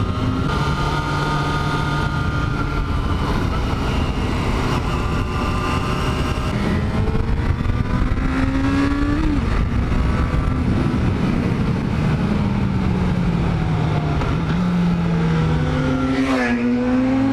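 Yamaha FZ6 N's 600cc inline-four engine under way, its note climbing under throttle and dropping sharply at a gear change about nine seconds in. It then falls away and steps up and climbs again near the end. Steady wind noise runs under it.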